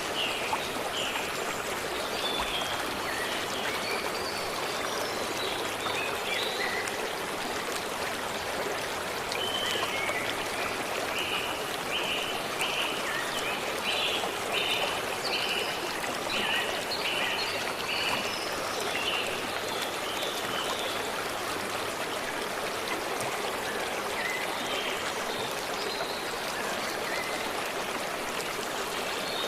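Steady running stream water, with small birds calling over it: scattered chirps, and in the middle a run of about eight short repeated notes.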